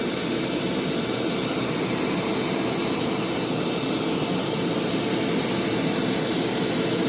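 Hoover SteamVac SpinScrub carpet cleaner running with a steady, loud drone, motor and brushes working while it sprays the carpet.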